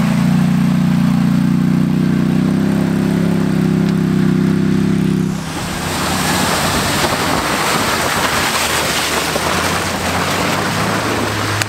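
The lifted MK4 Jetta wagon's 2-litre four-cylinder engine running hard at a steady pitch for about five seconds. It then drops to a lower drone under a loud, even rushing noise.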